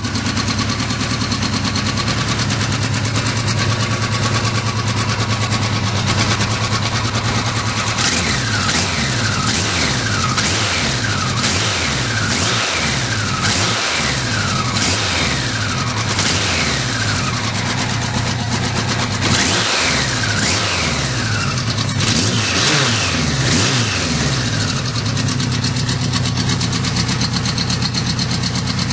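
Kawasaki Z1000 LTD's air-cooled inline-four engine idling, then blipped repeatedly, about once a second, each rev rising and falling back, before settling to a steady idle again near the end.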